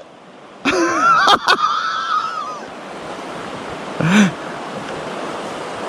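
Steady hiss of wind and water on a lake, with a short wordless vocal exclamation and two sharp clicks close together about a second and a half in, and another brief vocal sound near four seconds.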